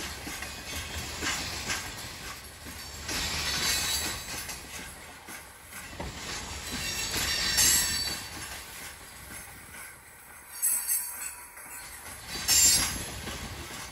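Loaded coal hopper cars rolling past slowly on steel rails, a low rumble with high-pitched wheel squeal that swells and fades every few seconds.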